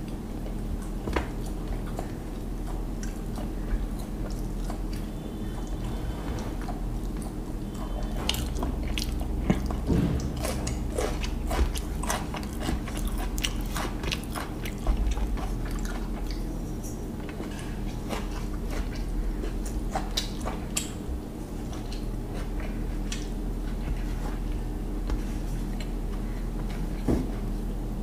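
Close-miked chewing of hilsa biryani, with scattered small clicks of fingers picking rice off a steel plate, over a steady low hum.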